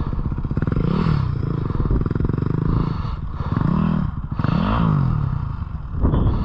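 Dirt bike engine running with quick revs, its pitch rising and falling three times, about one, four and five seconds in.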